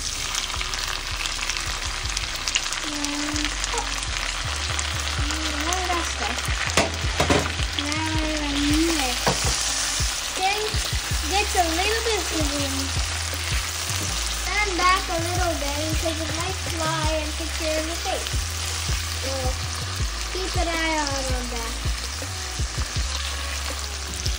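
Onions and freshly added chopped tomatoes sizzling in hot oil in a stainless steel wok, with a silicone spoon stirring and scraping against the pan in scattered clicks.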